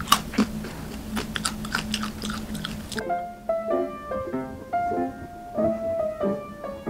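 Crisp crunching of flavoured almonds being bitten and chewed close to the microphone, an irregular run of crackles. About three seconds in the crunching stops and soft piano notes carry on.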